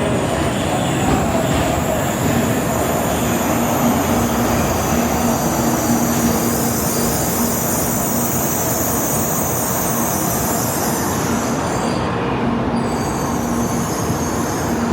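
Shinkansen bullet train running along the platform: a steady rumble and rushing noise with a held whine on top.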